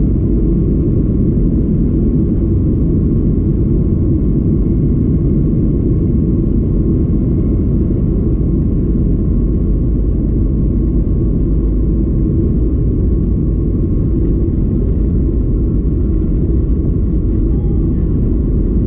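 Steady cabin roar inside a Boeing 737 MAX 8 in flight: the drone of its CFM LEAP-1B engines and the rush of air over the fuselage, with a faint steady whine above it.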